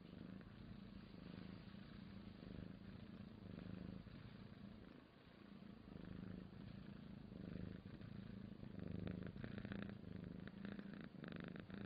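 Domestic cat purring quietly, a low rumble that swells and fades with each breath, about once a second. Some faint crackling near the end.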